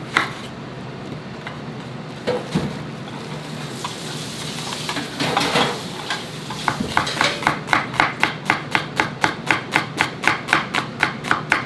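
Knife chopping on a cutting board in an even rhythm of about four cuts a second, starting a little past halfway, over a steady low kitchen hum; a few scattered knocks and a brief rustle come before it.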